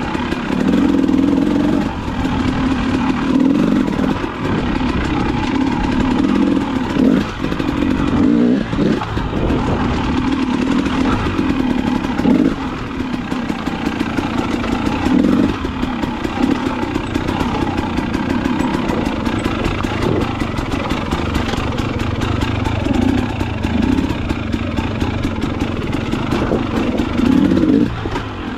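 KTM dirt bike engine running under way on a single-track trail, the revs rising and falling over and over with the throttle and gear changes.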